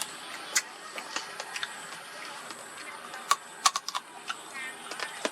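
Crab shells being cracked and chewed close to the microphone: irregular sharp clicks and cracks, with a cluster of louder ones a little over three seconds in.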